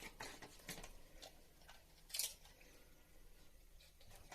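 Faint scattered clicks and scrapes from hands handling air-conditioner refrigerant piping, with one sharper click about two seconds in.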